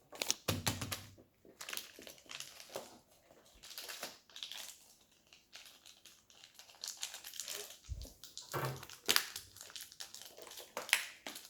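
Crinkly toy packaging being torn open and handled, an irregular run of crackles and rustles with a few dull handling bumps.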